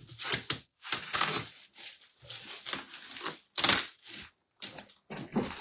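A cardboard box and its tape and wrapping being torn open by hand: a run of irregular ripping and crinkling noises, the loudest a sharp rip about two thirds of the way through.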